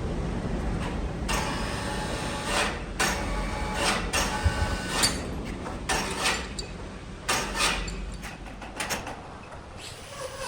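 Wood lathe motor humming while a turning tool is repeatedly pressed against the spinning wood blank, giving a series of irregular scraping cuts.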